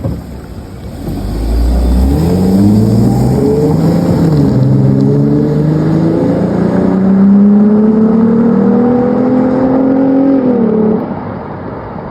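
Naturally aspirated V6 on a stock exhaust accelerating hard. It climbs in pitch, drops twice in quick succession as it shifts up, then makes one long steady climb. About eleven seconds in the throttle closes and it falls back to a quieter running note.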